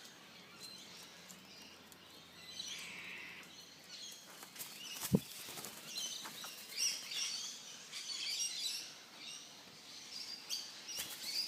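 Australian king parrots chirping with short, scattered high calls, with a single sharp knock about five seconds in.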